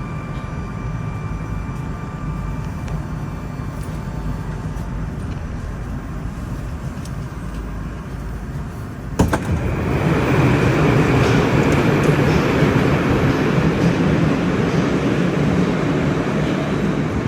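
Moscow Metro train noise: a steady low rumble, then a sharp click about nine seconds in, after which the running noise grows louder and fuller.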